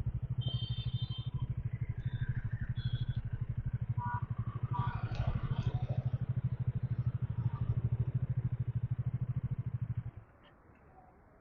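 Bajaj Dominar 400's single-cylinder engine idling with an even, steady pulse, then switched off about ten seconds in, the sound stopping abruptly.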